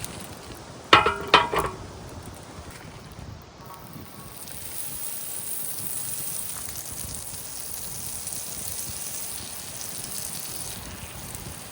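Pancake batter sizzling in a hot pan over a campfire: a steady high hiss that builds from about four seconds in. About a second in, a short, loud call sounds in three quick pulses.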